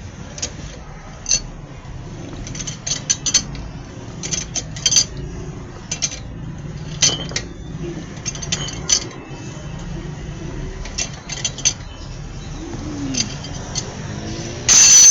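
Metal tools clinking and tapping at irregular intervals during tyre patching work, over a faint steady low hum. Near the end comes one short, loud burst of noise.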